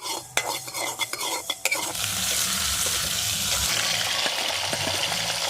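A spoon knocking and scraping in a pan for about two seconds, then food sizzling steadily as it fries in hot oil.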